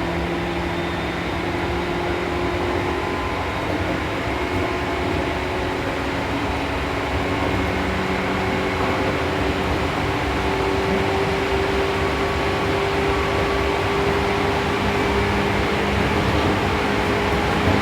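Seibu New 2000 series electric train running between stations, heard from inside the car: steady wheel and rail noise under a faint motor whine that rises slightly in pitch through the middle.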